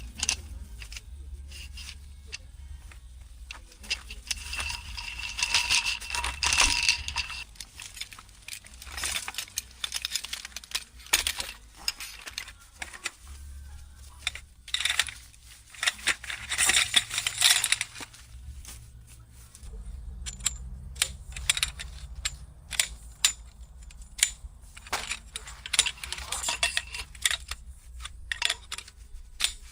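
Small metal objects being handled: repeated clinks, jingles and rattles with some rustling. They come in three busier spells, the first with a brief metallic ring, over a low steady hum.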